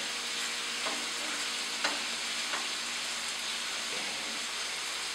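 Diced raw chicken sizzling steadily in hot olive oil in a skillet as it browns, with a few light taps and scrapes of a spatula against the pan.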